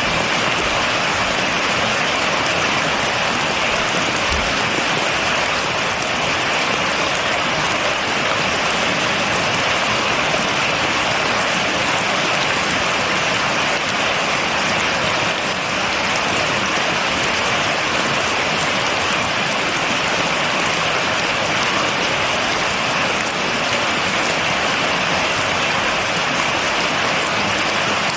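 Steady rain falling, an even hiss of drops with fine pattering throughout, without thunder.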